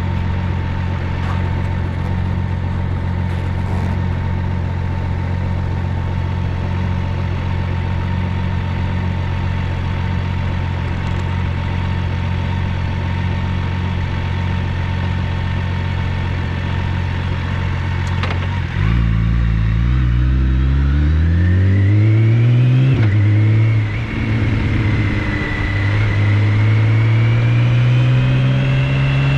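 BMW K1600GTL's inline-six engine through a Hattech aftermarket muffler. It runs at a steady, even note for most of the time, then suddenly gets louder and climbs in pitch as it accelerates, with one short dip, like a gear change, before it rises again.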